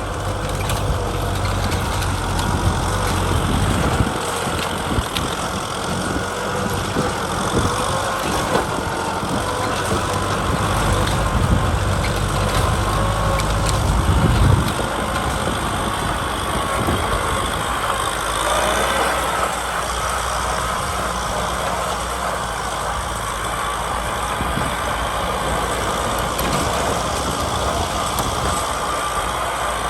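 Kubota tractor's diesel engine running steadily while plowing, with a heavy low rumble that eases about halfway through.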